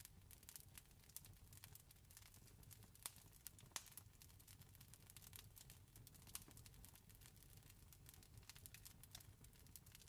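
Faint campfire crackling: irregular small pops and snaps, a few louder than the rest, over a low steady rumble.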